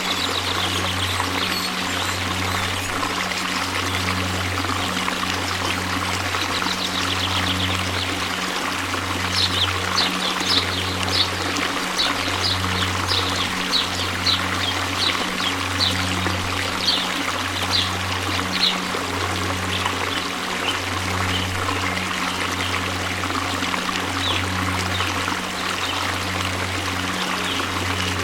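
Waterfall: a steady rush of falling water with a low throb that pulses about once a second. From about a third of the way in, a run of short high-pitched chirps comes about one and a half times a second for roughly ten seconds.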